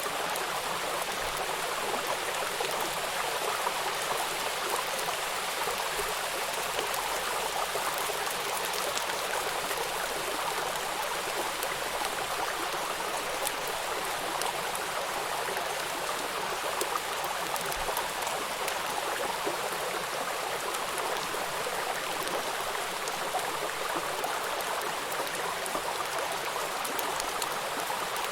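River water rushing over rocks at a small waterfall: a steady, even splashing rush with fine droplet patter.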